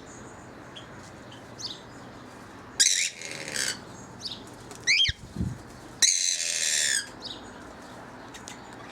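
Aviary parrots calling: a few short sweeping chirps and two longer, harsh screeches, about three and six seconds in.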